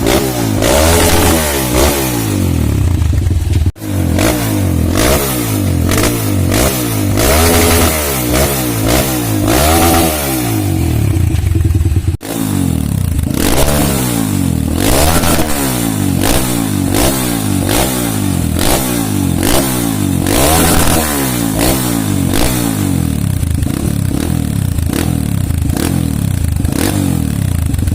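Single-cylinder four-stroke dirt bike engine revving through a Norifumi Rocket 4 stainless aftermarket exhaust. The throttle is blipped again and again, so the pitch rises and falls many times. The sound cuts out briefly twice, near 4 and 12 seconds in.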